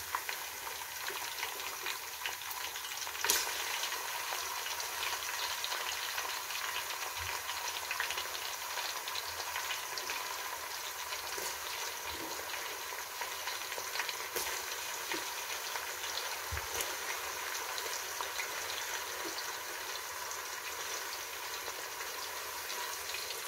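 Tomatoes frying in hot oil with browned onions and ginger-garlic paste: a steady sizzle, with a few sharp clicks of a spoon stirring the pan.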